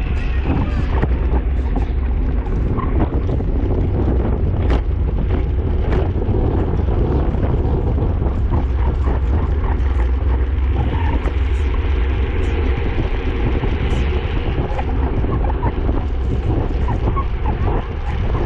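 Wind buffeting the microphone of a camera carried on a racing bicycle at speed, a steady heavy low rumble with a few sharp clicks.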